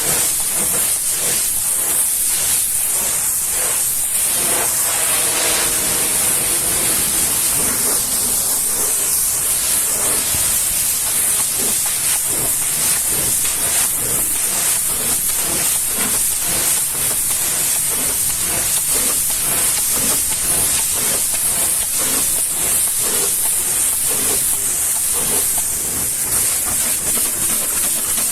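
High-pressure washer jet spraying water onto a minibus, a loud, steady hiss that flickers as the spray moves over the body.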